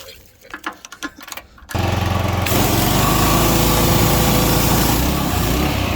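A small gasoline engine catches about two seconds in and runs on steadily, with a loud hiss added half a second later. It is running on race gas, which it is not liking.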